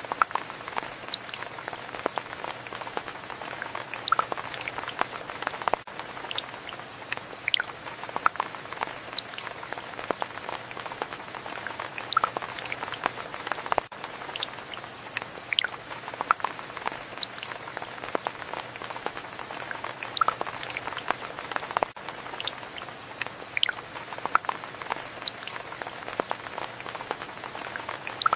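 Steady rain: a soft hiss with many separate drops and drips ticking on a surface at irregular moments.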